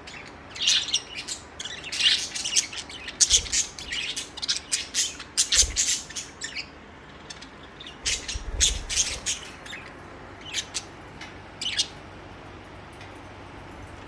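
A flock of pet budgerigars chattering with quick, high chirps and squawks. The calls come thick and fast at first, then thin out to a few scattered chirps and stop near the end. A few dull low thumps come in between.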